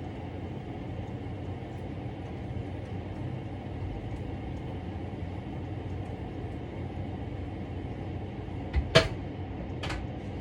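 A steady low hum throughout, with two sharp knocks near the end about a second apart.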